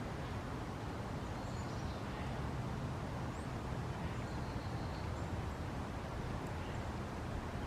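Steady low outdoor rumble with a few faint, short, high bird chirps.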